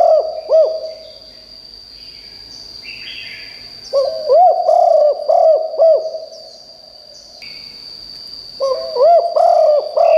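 Spotted dove cooing: phrases of several rising-and-falling coo notes. One phrase ends just after the start, a full phrase comes about four seconds in, and another begins near the end. A steady high-pitched whine and faint chirps of other birds run underneath.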